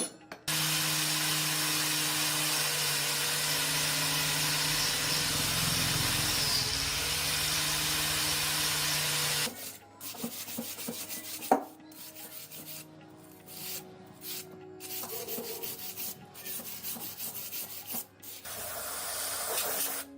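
A handheld power tool sands a surface steadily for about nine seconds, then stops sharply. Irregular scraping and knocks follow, one sharp knock among them. The sanding starts again briefly near the end.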